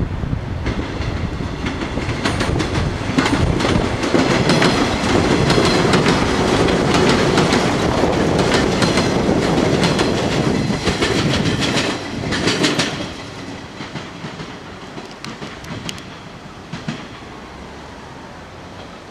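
Electric multiple-unit train passing close by, its wheels clicking over rail joints. The sound drops sharply about 13 seconds in as the last car goes by, then fades as the train pulls away.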